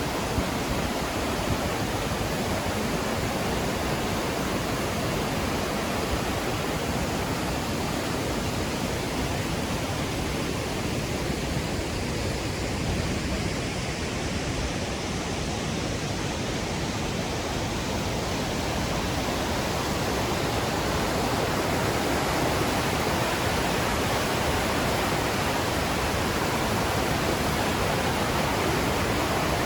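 Låtefossen twin waterfall rushing: a steady, loud roar of falling water that swells slightly in the last third.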